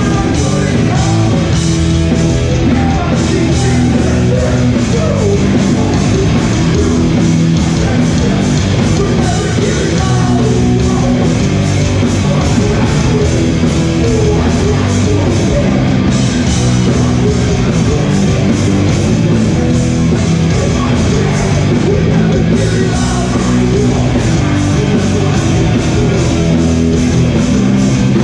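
Hardcore punk band playing live at full volume: distorted electric guitars, bass and fast, steady drums, with vocals over the top.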